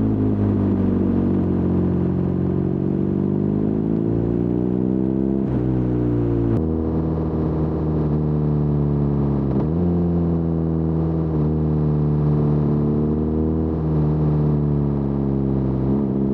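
BMW R nineT's air-cooled boxer twin running through its stock Akrapovič muffler with the baffle removed, at moderate revs, the pitch sagging and rising gently. The tone changes abruptly about six and a half seconds in.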